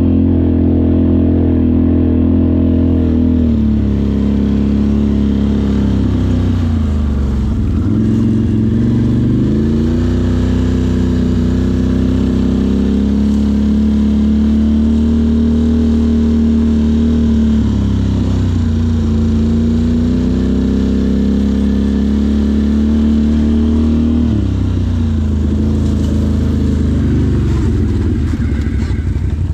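ATV engine running under throttle. Its pitch holds steady, then dips and climbs back three times as the throttle is eased off and opened again.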